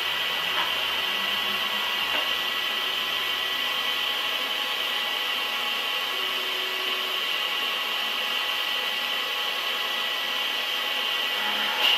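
Large metal-cutting machine tool running steadily, a continuous hiss with a high whine and a few faint ticks.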